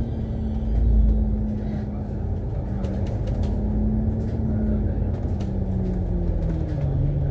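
Alexander Dennis Enviro500 MMC double-decker bus heard from inside the cabin while under way: a steady engine drone over road rumble that slowly falls in pitch toward the end, with light rattles.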